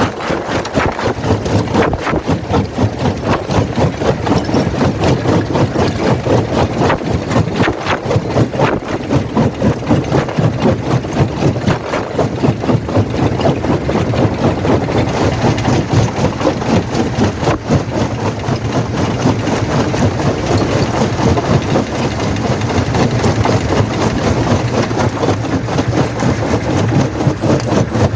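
Quarry primary jaw crusher running: a loud, steady mechanical rumble with a fast, regular pulsing and frequent knocks and clatter of stone.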